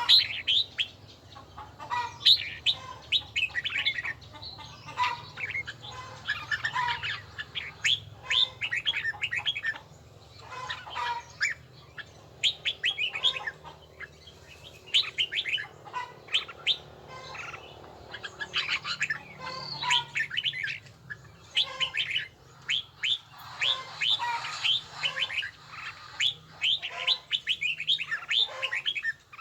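Red-whiskered bulbul singing: quick phrases of short, clear sliding notes, repeated over and over with brief pauses between them.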